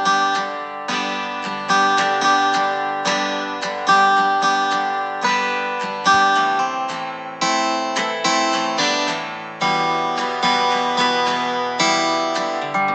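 Background music of plucked acoustic guitar, notes picked in a steady, even rhythm, each ringing and fading before the next.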